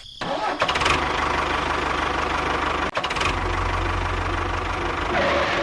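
A tractor engine running with a rapid knocking beat. It starts suddenly, breaks off for an instant about three seconds in, then runs on.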